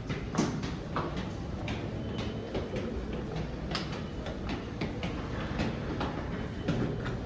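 Metro station ambience: a steady low rumble with irregular clicks and knocks, like footsteps and clatter in the station.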